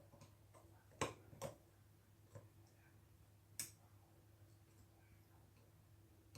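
A few short clicks and taps of a screwdriver and metal revolver parts being handled while the grip-frame screws of a Ruger Old Army are loosened, the loudest about a second in, over a low steady hum.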